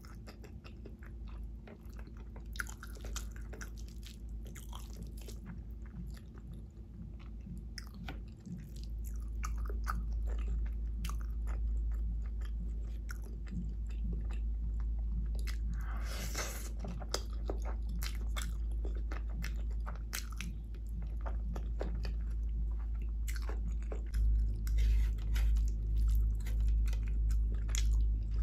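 Close-miked chewing and wet, sticky mouth clicks of someone eating vegetable biryani by hand. Near the end the chewing turns louder and regular, about one and a half chews a second.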